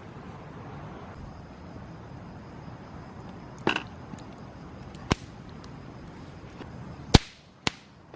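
Four sharp clicks or knocks over a steady low background hiss; the loudest comes a little after seven seconds in.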